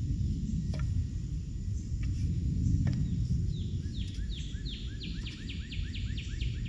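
Wind rumbling on the microphone, with a small songbird singing a quick run of repeated down-slurred notes, about four or five a second, from about halfway through.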